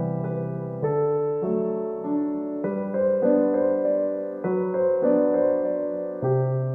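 Background music: a gentle solo piano piece, chords and notes changing about every half second to second.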